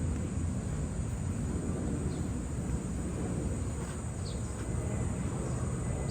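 Steady low rumble of road traffic with a few short, high bird chirps, about two, four and six seconds in.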